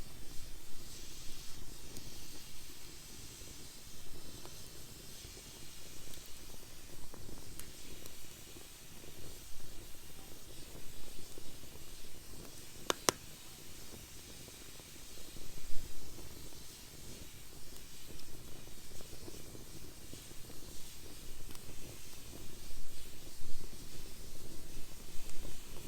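Wood fire burning in a fire pit: a steady hiss and low rumble of the flames, with a few sharp crackles and pops, the clearest about halfway through.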